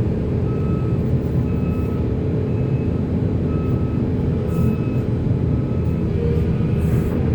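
Heavy diesel machinery running steadily under load, a dense low rumble, with short high alarm beeps repeating about once a second.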